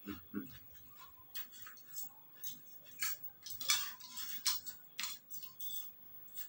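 Irregular light clinks and clicks of utensils against dishes, thickest in the middle, with a couple of soft low knocks at the very start.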